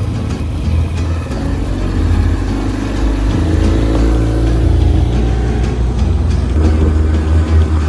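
An engine running with a steady low rumble, its pitch swelling briefly midway.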